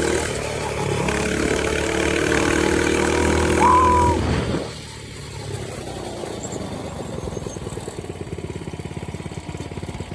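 Coleman CC100X mini bike's small single-cylinder engine, running ungoverned with its governor removed, held at high revs for about four seconds. The revs then drop off and it settles into a lower, even idle.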